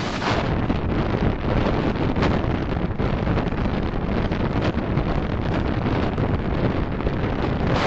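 Steady rushing road and wind noise from a car being driven, picked up by a dashcam microphone.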